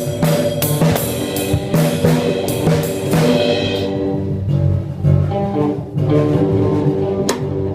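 A band rehearsing: a drum kit with crashing cymbals and an amplified guitar playing together, loud. The drums drop back about four seconds in, leaving the held guitar notes, then come back in near the end.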